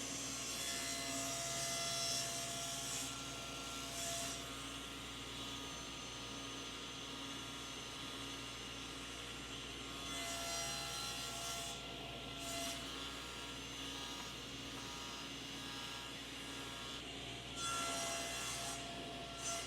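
Table saw running steadily, its blade tilted to 45 degrees, making a series of cross cuts into square wooden leg stock. Each cut is a few seconds apart and shows as a brief rise in a higher hiss over the steady motor hum.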